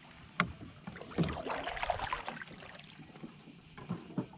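Kayak hull and paddle knocking and bumping, with a short burst of splashing about a second in.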